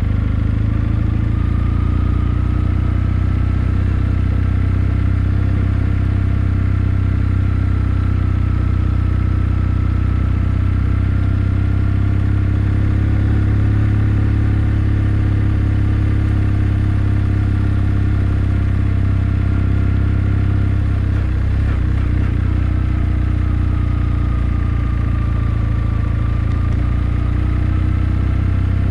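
Kawasaki W650's air-cooled parallel-twin engine running steadily under way at an even road speed, its pitch drifting gently with the throttle, with a short lull about two-thirds of the way through.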